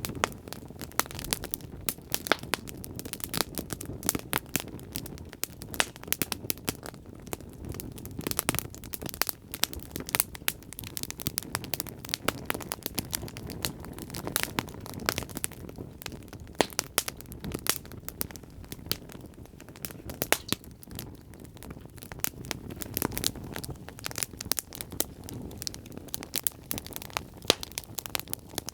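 Wood fire crackling and popping: many irregular sharp pops over a low steady rumble of burning.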